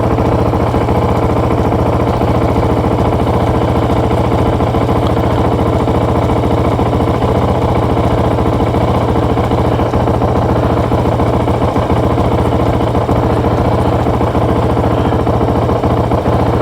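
Motorcycle engine idling steadily, a loud, even run of rapid firing pulses over a low hum.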